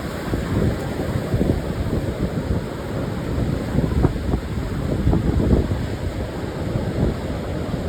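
Ocean surf breaking on a sandy beach, mixed with wind buffeting the microphone as a gusty low rumble that rises and falls in strength.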